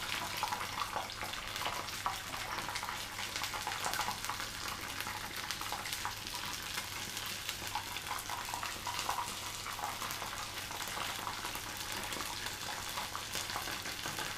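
Battered chicken pieces frying in hot oil in a frying pan, with steady sizzling and crackling and many small pops of spitting oil.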